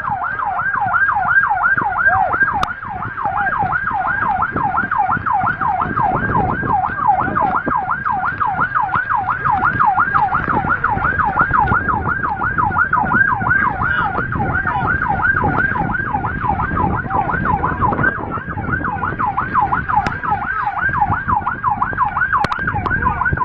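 Emergency vehicle siren sounding a fast yelp, its pitch rising and falling about three times a second without a break, over a low rumble of traffic or engine noise.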